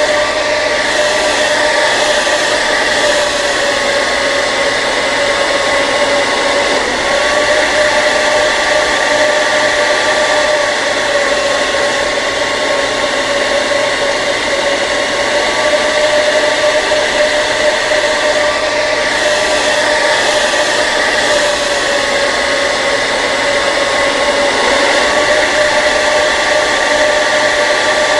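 Hair dryer running steadily: a continuous rush of air under an even motor whine.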